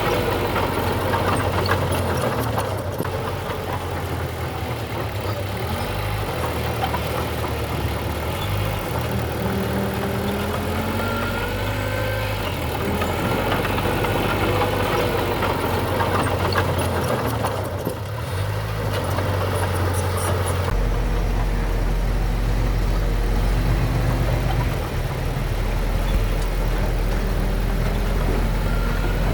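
Diesel engine of heavy earthmoving machinery running steadily at low speed. About 21 seconds in its low hum shifts to a deeper, stronger note.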